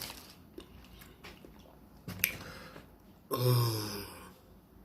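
Faint mouth noises from a man eating a sandwich, with a sharp click a little after two seconds and a short, low vocal sound lasting about a second a little after three seconds.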